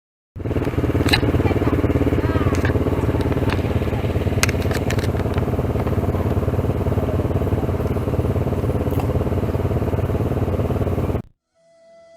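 Motorcycle engine running steadily and loudly, with scattered sharp clicks, cutting off abruptly near the end; faint flute music begins right after.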